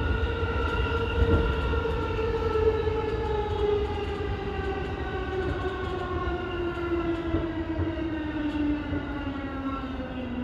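Electric commuter train's traction motors whining, the pitch falling steadily as the train slows, over the low rumble of wheels on rail. The train is an E233-1000 series.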